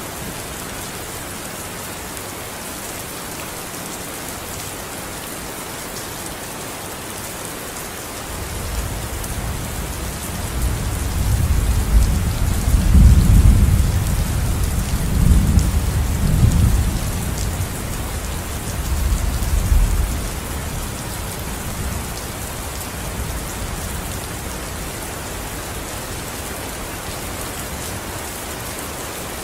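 Steady rain falling, with a long roll of thunder building about a third of the way in, rumbling loudest near the middle and dying away after about twelve seconds.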